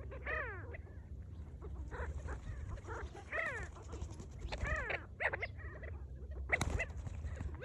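A flock of sandgrouse calling: many short, arched, throaty calls overlapping over a steady low hum, with a sharp click about two-thirds of the way in.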